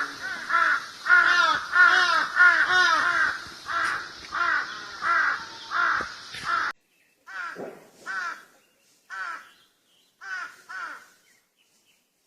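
Crows cawing: a dense, overlapping run of harsh caws over a steady hiss, then an abrupt change about seven seconds in to cleaner caws spaced about a second apart with silence between them.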